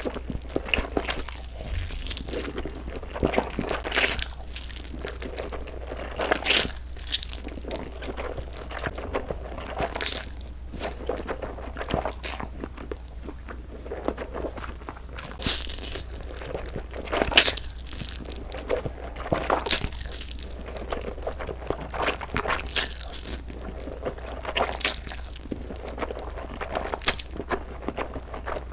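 Close-miked eating in mukbang ASMR style: irregular crunchy bites and chewing, a crackle every second or so, over a low steady hum.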